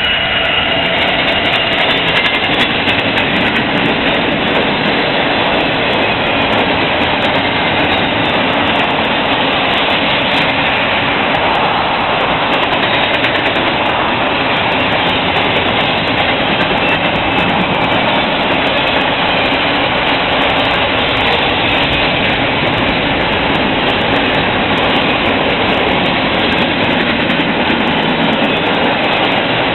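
BNSF double-stack intermodal container train rolling past: a steady, loud rumble and rush of steel wheels on rail as the loaded well cars go by.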